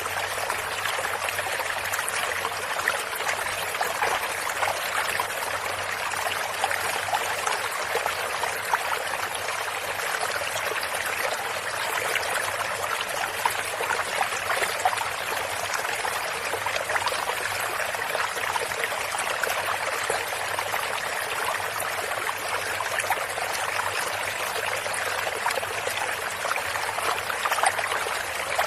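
Water flowing and trickling in a small stream, a steady babbling with fine splashes.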